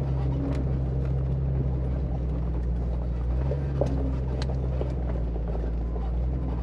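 Jeep Cherokee XJ heard from inside the cabin, its engine running in a steady low drone as it crawls up a rough mountain trail, with occasional light clicks and knocks.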